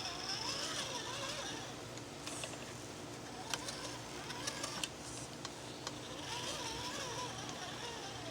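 Off-road crawler truck engine running at low revs, with a handful of sharp clicks or knocks in the middle and faint voices.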